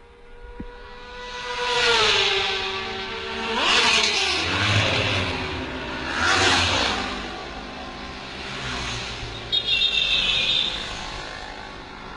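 Motorcycles passing at speed one after another, three loud pass-bys in quick succession. Each engine's pitch drops as it goes by, and the sound then fades to a lower engine noise.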